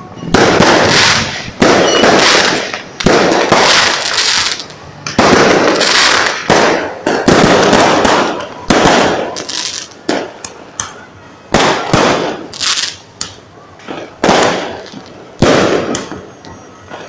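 Fireworks going off in a rapid irregular series of loud bangs and crackling bursts, each with a short fading tail.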